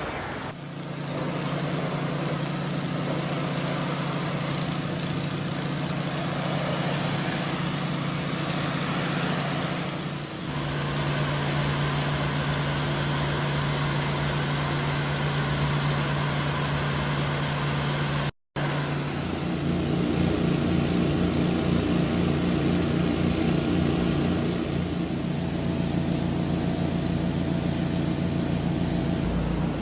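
Pressure washer's engine running steadily over a broad hiss. The sound cuts out briefly a little past halfway, then comes back with a rougher, lower engine note.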